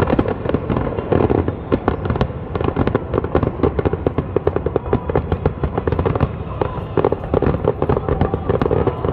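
Aerial fireworks going off in a rapid, continuous barrage of bangs and crackles, many per second.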